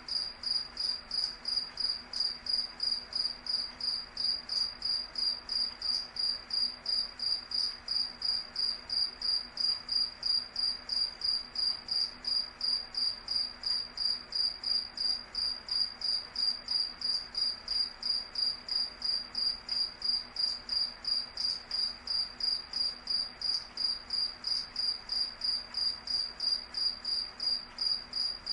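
Cricket chirping steadily: a high, even chirp repeating about three times a second without a break.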